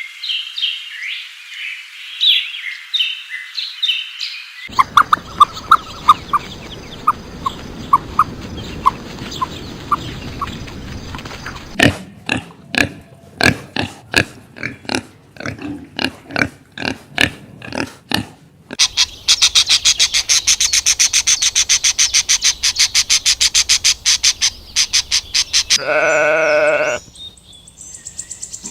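A series of different animal calls, one after another. It opens with high chirping. Next comes a run of short repeated calls, then a stretch of sharp grunts or knocks. A fast, even, high pulsing trill follows, and a short pitched call near the end.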